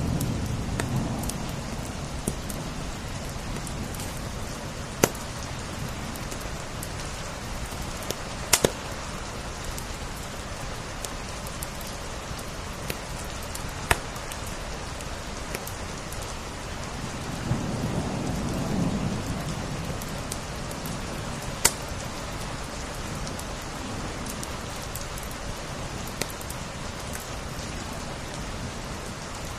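Steady rain with a crackling wood fire, its sharp pops heard every few seconds. Twice a low rumble swells up and fades, once at the start and once around two-thirds of the way through.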